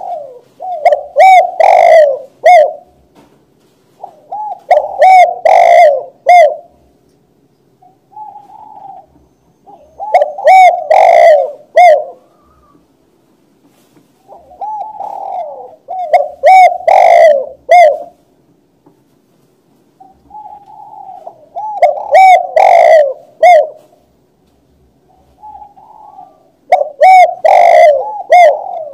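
Spotted dove (tekukur) cooing: loud, repeated multi-note coo phrases, each about two to three seconds long, given roughly every five to six seconds, six times.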